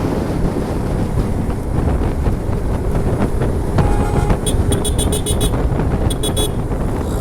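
Motorcycle riding at speed, engine rumble mixed with wind on the microphone, while a vehicle horn sounds in a rapid string of short high beeps about halfway through and again briefly near the end.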